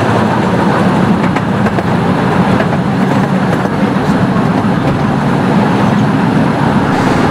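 A 15-inch-gauge steam-hauled miniature train running, heard from inside an open passenger carriage: a steady, loud rumble of wheels on track and rattling carriages.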